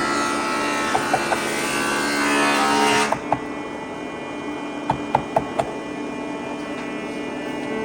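A woodworking power tool runs with a steady whir and cuts off about three seconds in, followed by a few light knocks.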